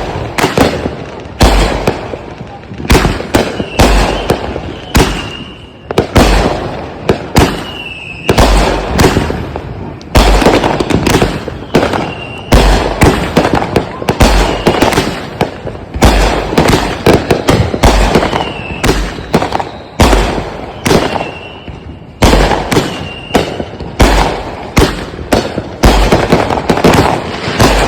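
Consumer firework cake firing shot after shot, a sharp bang every second or two, each trailed by crackling bursts, with a brief high whistle after many of the shots.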